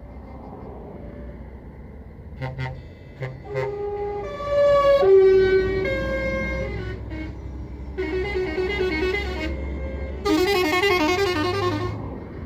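Truck horns sounding as convoy lorries pass, over the low rumble of their diesel engines. A few short toots about two seconds in lead into a musical horn playing a tune of several stepped notes. Warbling, siren-like tones follow near the end.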